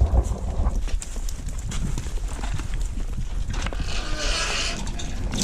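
Footsteps on a hard, debris-strewn floor with scattered knocks, and a brief scraping rustle about four seconds in.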